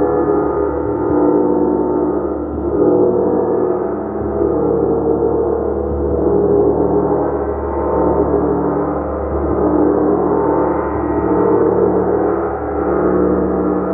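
Gong played in a continuous wash of many overlapping ringing tones, swelling and ebbing every second or two with no single sharp strike standing out.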